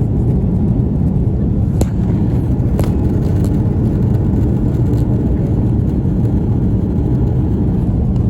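Steady low rumble of an Airbus A330-300 heard from inside the cabin: engine and airflow noise, with a few faint clicks or rattles.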